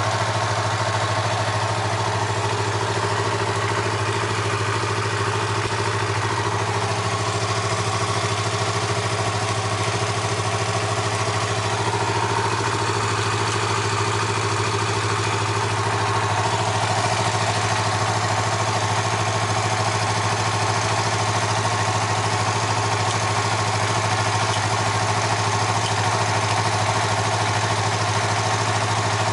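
Yamaha MT-25's 249 cc parallel-twin engine idling steadily through an aftermarket Yoshimura exhaust muffler.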